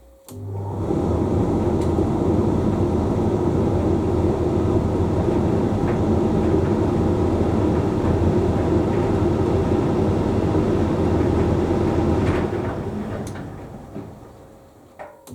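Hoover Link X Care condenser tumble dryer running mid-cycle: a steady motor-and-drum rumble for about twelve seconds, which then winds down to a pause with a couple of clicks near the end.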